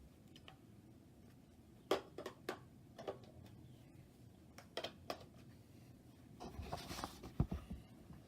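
Faint, scattered clicks and knocks of parts and packaging being handled, with a short rustle and a dull thump near the end.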